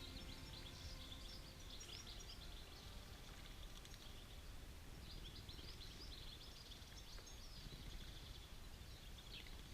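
A flock of small birds chirping and twittering together, many quick high calls overlapping, faint over a low steady rumble.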